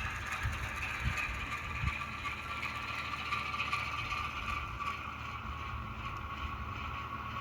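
N gauge Class 08 diesel shunter model running with its DCC sound decoder playing a steady diesel engine sound through the loco's small speaker, over a low rumble of the model on the track.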